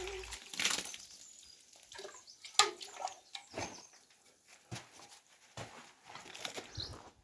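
Light, irregular knocks and scrapes of hand masonry work with a trowel on mortar and stone, with a bird chirping briefly near the end.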